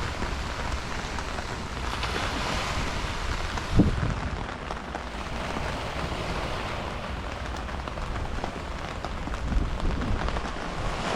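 Heavy rain falling steadily, with a single low thump about four seconds in.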